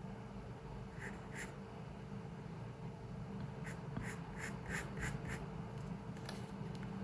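Pencil strokes scratching on paper: two short strokes about a second in, then a quick run of about six strokes in the middle and one more near the end, over a steady low room hum.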